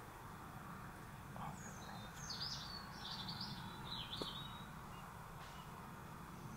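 A small bird singing a short phrase of quick, high twittering notes from about one and a half to four and a half seconds in, faint over a steady low background hiss.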